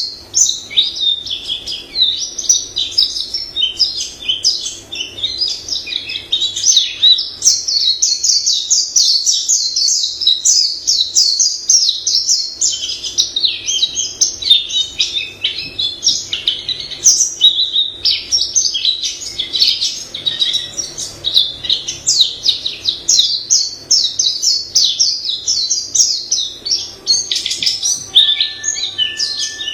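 White-eye singing a long, varied song: rapid high-pitched twittering and warbling phrases strung together almost without a break.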